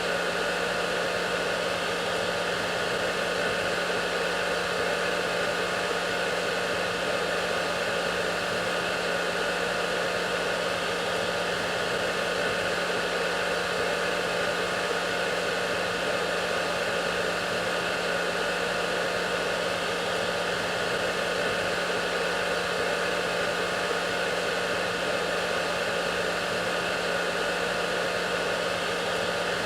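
Hair dryer running steadily: a continuous airy rush with a steady hum, unchanging throughout.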